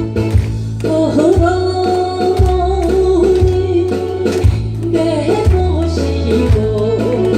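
Korean trot song performance: a singer's voice comes in about a second in, holding long wavering notes over a steady bass beat and guitar.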